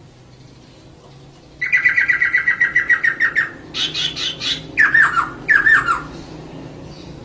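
Female poksay (laughingthrush) calling: a fast chattering trill of about ten notes a second, then a few higher notes and two falling slurred calls, starting about one and a half seconds in and stopping about six seconds in. This is the female's call used to prompt a male to sing.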